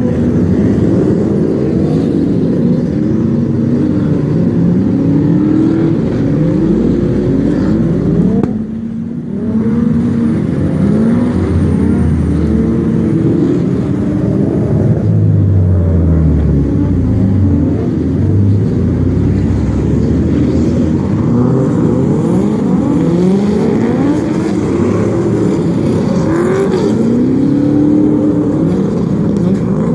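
A drift car's engine revving hard, its pitch climbing and falling again and again as the throttle is worked through the slides, with a short break in the revs about nine seconds in.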